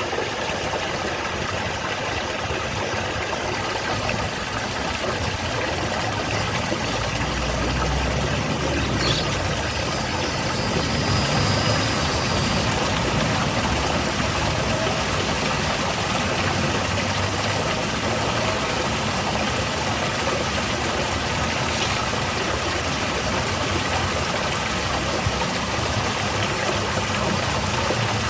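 Small garden waterfall: a steady rush of falling water, with a low engine-like rumble underneath that swells a little now and then.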